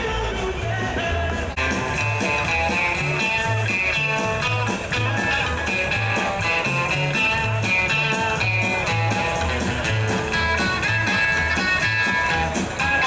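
Rockabilly music with an electric guitar playing over a bouncing bass line and a steady beat, with little or no singing.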